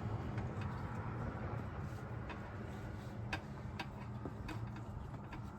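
Several light, scattered clicks and ticks, about six of them, over a low steady hum.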